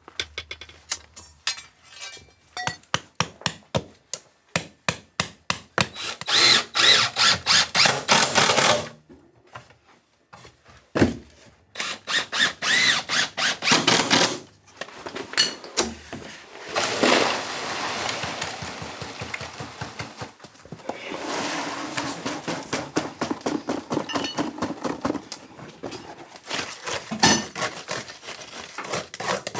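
Building work with tools: quick series of sharp knocks and taps, broken by several loud bursts of a power tool lasting a few seconds each.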